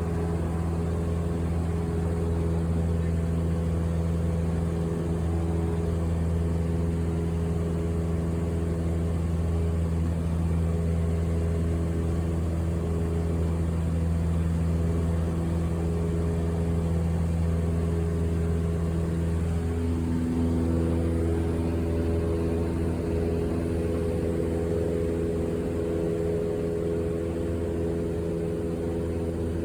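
Aircraft engines droning, heard inside the passenger cabin: a steady low drone with several held hum tones.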